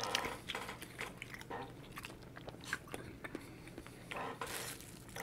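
Close-miked chewing of a mouthful of food: a run of small irregular mouth clicks and smacks.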